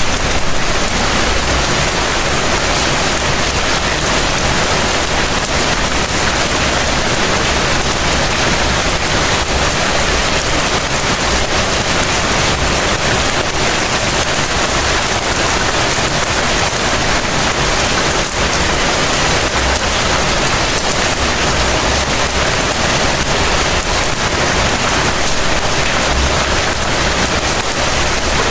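Heavy rain falling steadily, a dense, even hiss, with a low rumble coming and going underneath.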